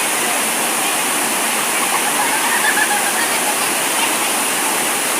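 Water pouring over a waterfall, a steady, even rush with no change.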